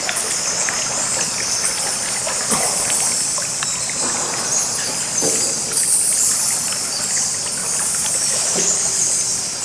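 Water running steadily, a continuous hiss with faint scattered clicks.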